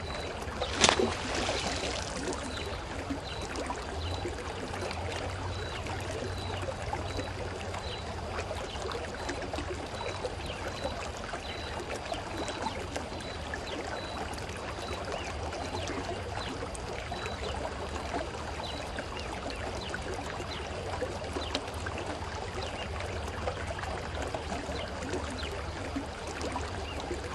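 Shallow stream water running and trickling steadily, with a low steady rumble under it. One sharp click about a second in, and a faint high ticking repeating about twice a second through the first half.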